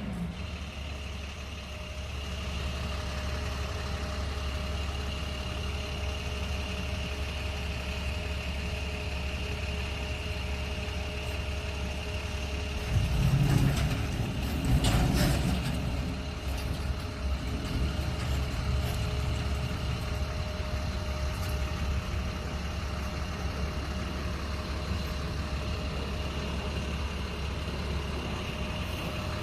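Diesel engine of a roll-off dumpster truck idling steadily. It grows louder for a few seconds about halfway through.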